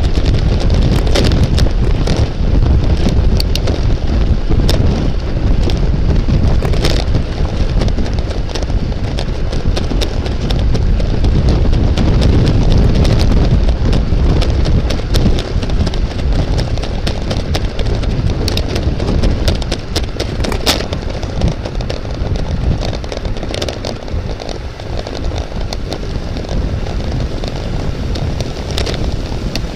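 Heavy wind rumble on the microphone, with scattered sharp clicks and knocks, easing somewhat in the last third.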